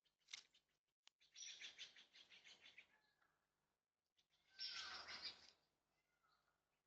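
Harsh, rapid rattling bird calls in two bursts about three seconds apart, the second louder, after a couple of sharp clicks.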